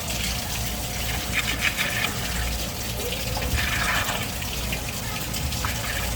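Water running and splashing steadily, with brief surges.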